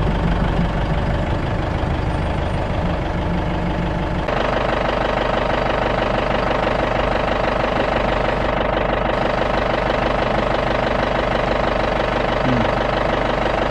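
Safari jeep's engine running steadily as the jeep drives; the sound changes abruptly and grows brighter about four seconds in.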